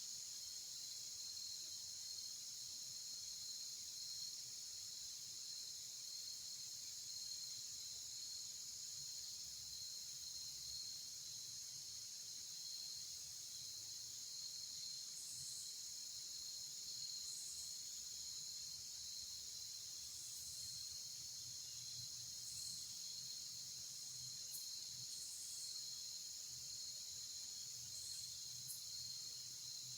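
Steady chorus of insects trilling, high and continuous, with a few short, higher chirps in the second half.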